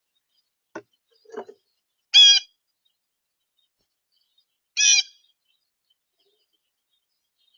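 A bird at a backyard feeder giving two loud, short calls about two and a half seconds apart, after two faint short sounds about a second in.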